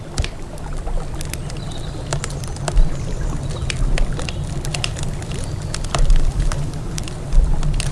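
Wood campfire crackling with scattered sharp pops, over a steady low rumble of flowing river water.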